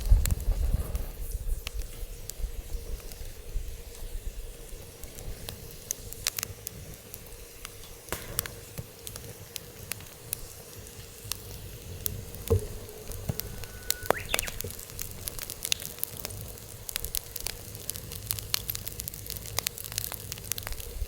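Wood fire burning in a fire pit, crackling with frequent sharp pops and snaps. A brief rising whistle is heard about two-thirds of the way through.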